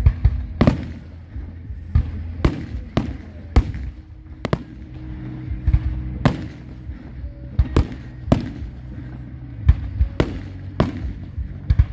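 Aerial fireworks shells bursting in an irregular string of sharp bangs, about one a second, some with a short crackling tail. Steady low music plays underneath.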